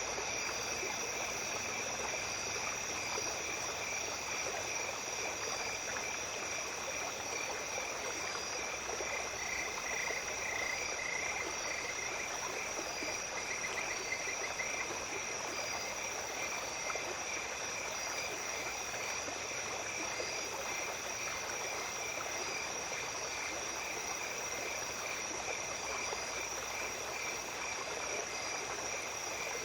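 A small stream flowing steadily under a chorus of insects trilling at several pitches. A short pulsing call joins about ten seconds in and again a few seconds later.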